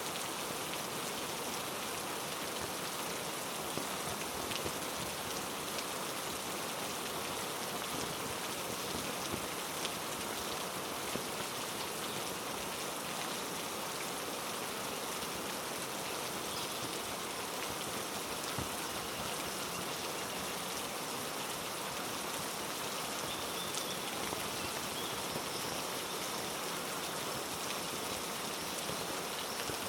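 Steady heavy rain, with scattered individual drops.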